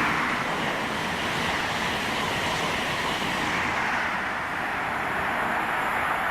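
Train running through the station without stopping: a steady, loud rushing of wheels on rail and air, its highest hiss easing a little about two-thirds of the way through.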